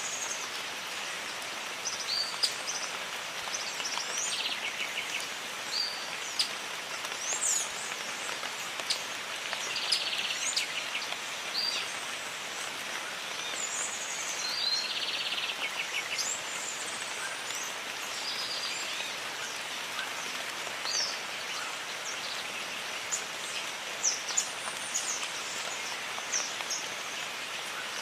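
Steady rain falling on jungle foliage, with several birds calling over it: short whistled chirps and a few quick trills scattered throughout.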